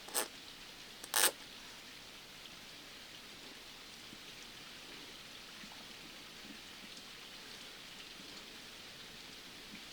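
Steady hiss of rain ambience. Two short, sharp bursts of noise come about a second apart near the start.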